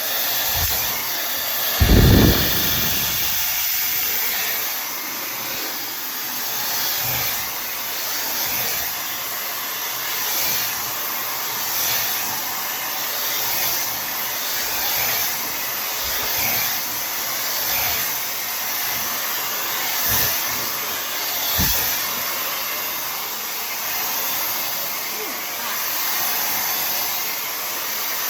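Tymo Air Hype hair dryer running steadily, blowing hot air, its level swelling and dipping as it is moved through the hair. A loud low thump about two seconds in, with a few fainter knocks later.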